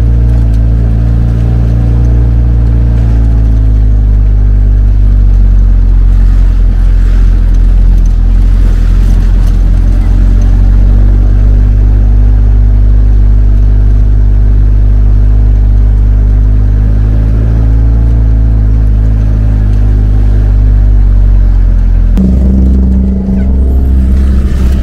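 A motor vehicle's engine running steadily while under way. Its pitch rises and falls gently, and there is an abrupt change in its note about 22 seconds in.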